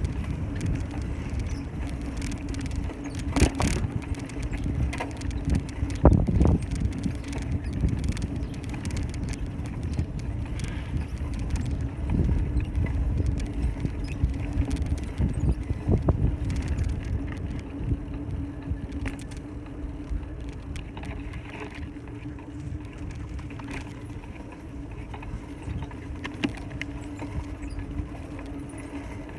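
Bicycle riding along a town street, heard from the bike: a steady tyre rumble and hum, with rattles and knocks from the bike, the loudest about four and six seconds in.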